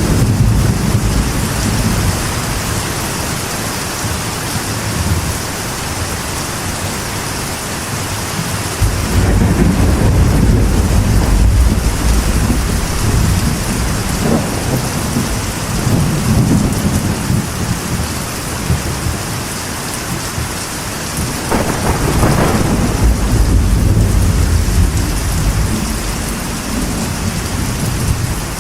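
Steady rain drumming on a metal roof, with rolling thunder swelling up in low rumbles three times: at the start, about nine seconds in, and again a little past twenty seconds.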